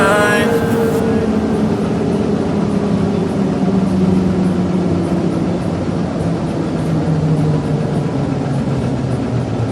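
ZiU-682G trolleybus in motion: the whine of its electric traction drive slowly falls in pitch as it slows, over the steady rumble of the ride.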